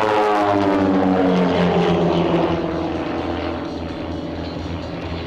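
Propeller-driven Van's RV-8 aerobatic aircraft flying past, the engine and propeller note dropping in pitch as it goes by, then settling into a steadier, slightly quieter drone about halfway through.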